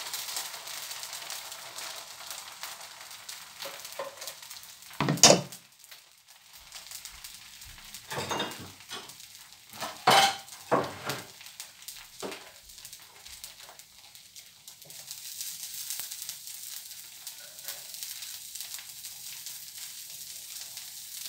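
Dosa sizzling on a hot tawa, a steady hiss, with a few short loud knocks of a utensil, the loudest about five seconds in and a cluster between eight and twelve seconds.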